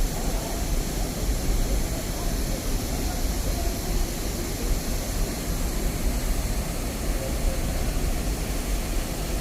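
Steady rush of flowing stream water, with a low fluctuating rumble underneath.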